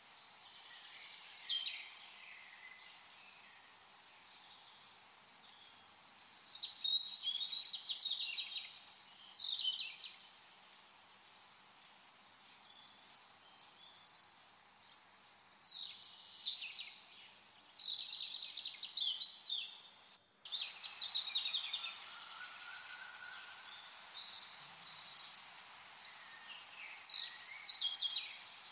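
Birds chirping in several spells of quick, high calls with pauses between, over a steady hiss. The background cuts out for a split second about two-thirds of the way through.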